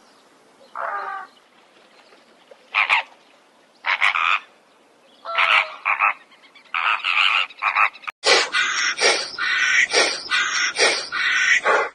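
Animal calls: a few short calls with gaps between them, then from about eight seconds in a dense run of rapid calls, several a second.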